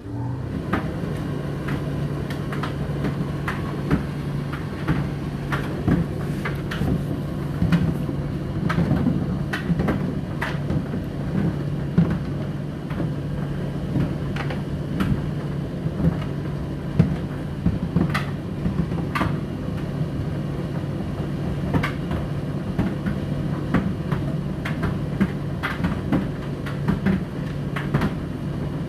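A household appliance running, with a steady motor hum and irregular light knocks and clicks over it. It starts suddenly at the very beginning.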